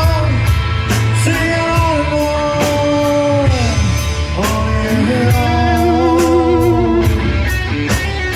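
Live rock band playing between sung lines: an electric guitar lead with bent, sliding notes and a wavering vibrato note over steady bass and drums.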